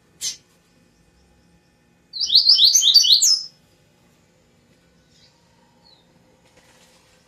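Double-collared seedeater (coleiro) singing: a single sharp chip, then about two seconds in a quick, high-pitched phrase of about eight rapid slurred notes lasting about a second and a half.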